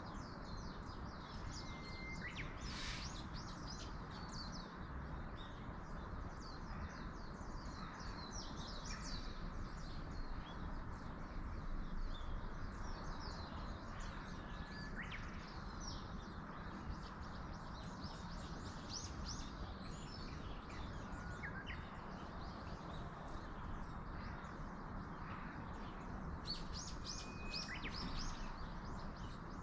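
Wild songbirds chirping with many quick, high calls and a few short whistled notes, over a steady rush of wind in the trees. The chirping grows busier near the end.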